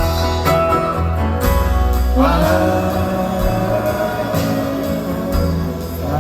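Live acoustic folk band music: an instrumental passage between sung lines, with a new held, sliding note coming in about two seconds in.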